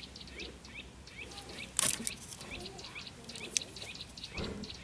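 Small birds chirping in the background, a string of short, quick upward chirps repeating every fraction of a second, with a sharp click about two seconds in and a softer knock near the end.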